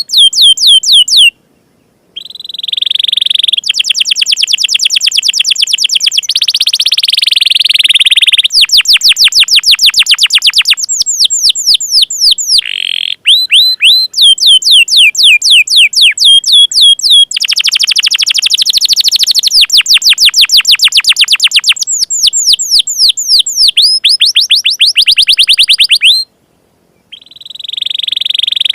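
Canary singing loudly: long, fast trills of rapidly repeated high, sweeping notes in phrase after phrase, broken by two brief pauses, one near the start and one near the end.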